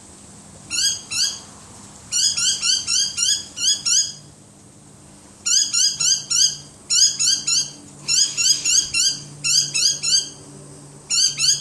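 A cat chattering at birds: runs of short, high chirps, about four a second, broken by pauses. It is the excited jaw-trembling chatter of a cat fixed on prey it cannot reach.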